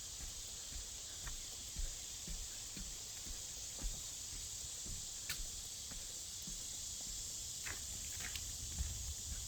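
Footsteps walking at a steady pace on a wet dirt trail, about two soft thuds a second, with a few small twig or leaf crackles. A steady high-pitched hiss runs underneath.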